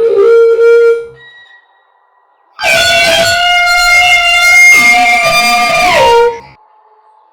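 Multi-tone vehicle air horn (typhon) sounding: one blast ends about a second in, then after a short gap a long chord-like blast of about four seconds, briefly broken midway, its tones sagging in pitch as it cuts off.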